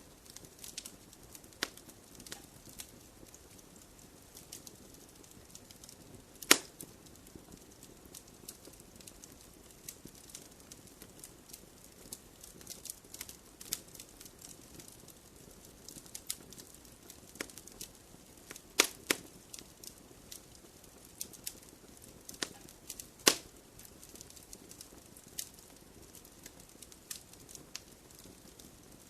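Wood fire crackling in a fireplace: irregular sharp pops and snaps over a soft steady hiss, with louder pops about six seconds in, twice close together near the middle, and once more a few seconds later.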